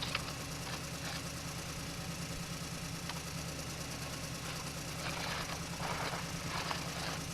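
An engine idling steadily, a low even hum, with a few short rustling scrapes about five to seven seconds in.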